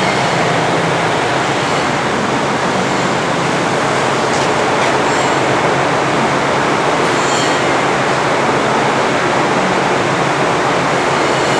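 Forrest Model 236 bandsaw running steadily, its 5/8-inch scallop-edge blade moving at 3000 feet per minute and cutting through a stack of rebonded foam. The sound is a continuous, even mechanical hum and whir.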